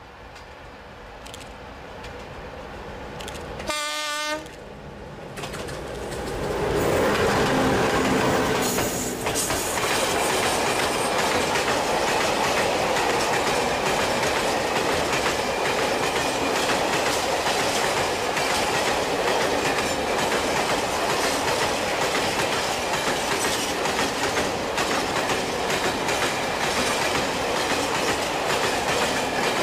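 Electric freight locomotive approaching and giving one short horn blast about four seconds in, then passing close. A long train of empty tank wagons follows, rolling by with a steady noise of wheels on rail and regular clicks over the rail joints.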